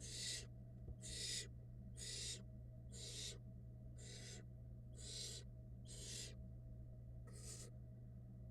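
Barn owl nestlings giving rasping, hiss-like food-begging calls, about one a second, over a steady low electrical hum.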